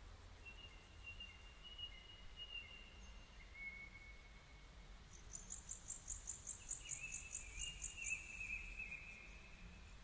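Faint bird sounds: long, thin whistled notes, joined about halfway through by a fast series of high chirps, about four a second, lasting some three seconds.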